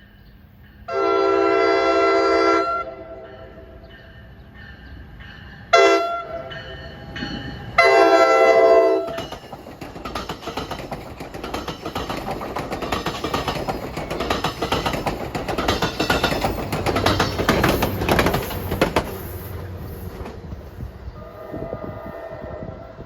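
NJ Transit multilevel cab car's horn sounding a long blast, a brief blast and another long blast. The push-pull passenger train then rolls past with steady wheel clatter and rumble, and a fainter horn blast sounds near the end.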